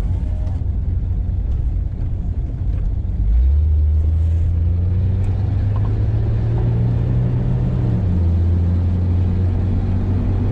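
Car engine and road noise under way. The engine note steps up about three and a half seconds in and climbs steadily as the car accelerates, then falls back near the eight-second mark as the driver shifts or eases off.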